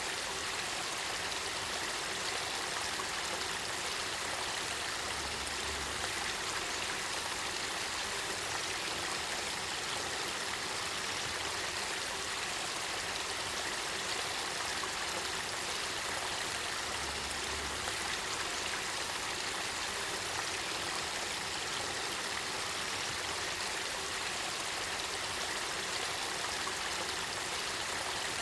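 Spring water flowing in a clear spring-fed river, a steady even wash of water noise.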